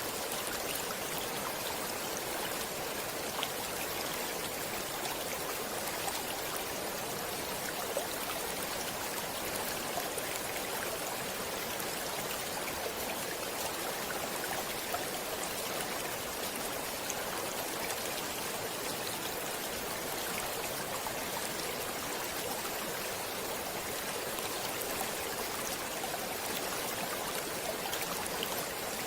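Stream water running steadily over stones, an even rushing with small splashes and trickles throughout.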